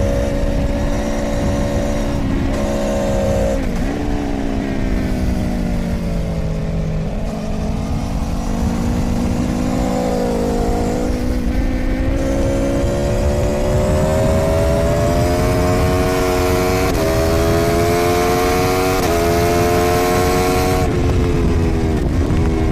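Aprilia Tuono V4's V4 engine heard onboard at speed. The revs fall away in the first third with a couple of brief blips, then climb again through several quick gear changes. Steady wind rush grows louder as speed builds.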